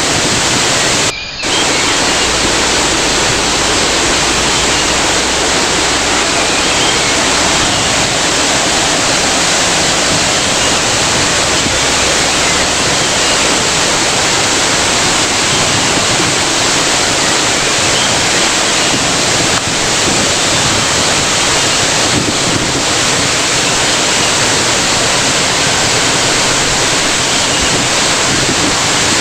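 Waterfall's water rushing steadily, with a brief dip in level about a second in.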